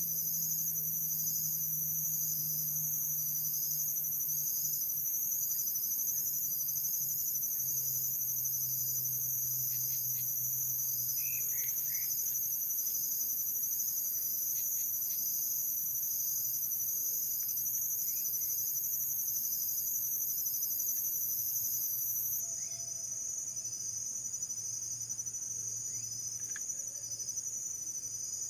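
Insect chorus, crickets chirping steadily: a continuous high trill with a regular pulse. The highest-pitched voice in the chorus stops about three-quarters of the way through.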